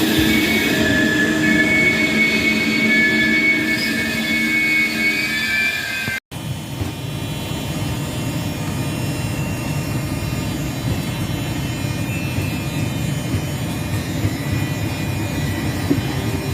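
A train at a station: a high metallic squeal over a steady rumble for the first six seconds or so, then a sudden cut to a steady low rumble of the train.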